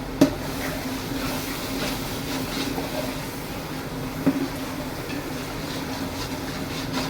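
Steady rumble of a large gas burner under a pot of frying masala, with two sharp knocks: one about a quarter-second in, the other about four seconds in.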